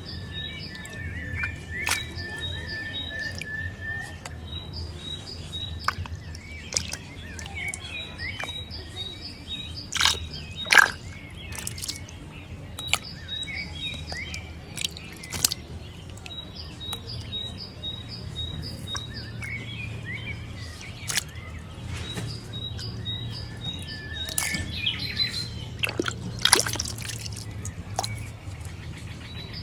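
Birds chirping in repeated series of short high calls, with one held high note early on, over a steady low hum. A few sharp knocks stand out, the loudest about eleven seconds in and again near the end.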